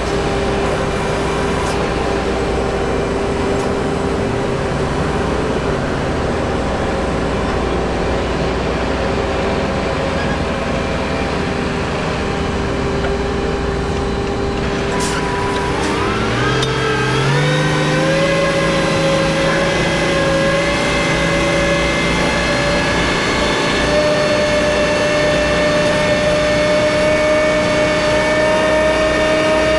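Peterbilt truck's diesel engine running at a steady low speed, then rising in pitch over a couple of seconds about halfway through and holding at a higher steady speed.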